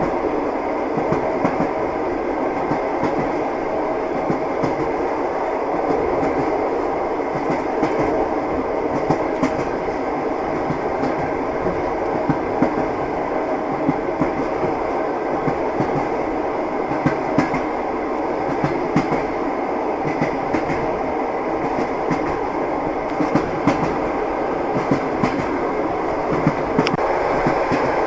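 Train running steadily along the track: a continuous rumble with the wheels clacking over the rail joints again and again.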